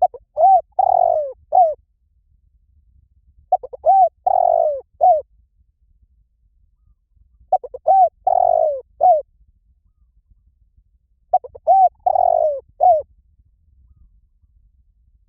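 Spotted dove cooing: four identical coo phrases about four seconds apart, each a couple of short notes, a longer drawn-out note and a short closing note.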